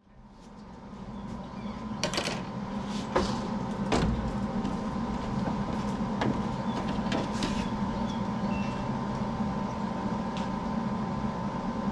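A steady mechanical hum fades in, with several sharp knocks and clinks about two to seven seconds in.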